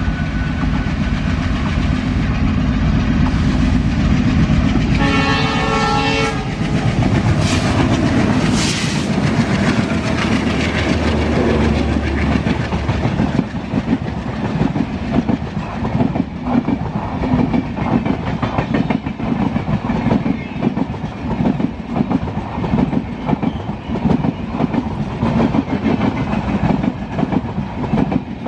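Twin WDM3D diesel locomotives passing with their engines running loud, and a horn blast about five seconds in. After that the coaches' wheels clatter over the rail joints in a long clickety-clack.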